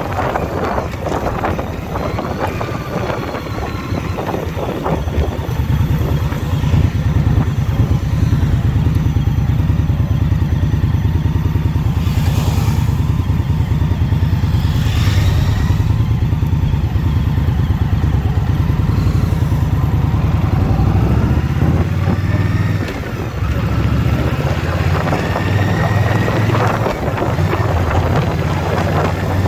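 Indian Scout Bobber Twenty's V-twin engine running under way on the road. It gets louder about six seconds in and eases off briefly about two-thirds of the way through.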